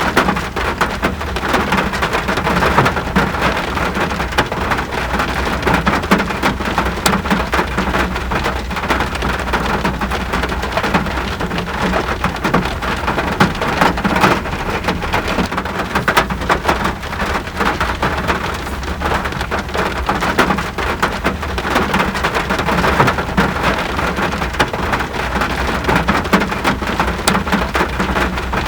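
Steady rain falling, many separate drops clicking over an even hiss, with a steady low rumble underneath.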